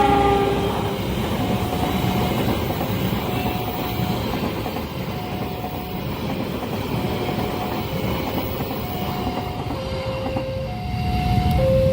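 A passenger train passing at a level crossing: the tail of its horn chord dies away about a second in, then the steady rumble and clatter of wheels on the rails goes on. Short single warning tones from the crossing alarm repeat every second or two over it.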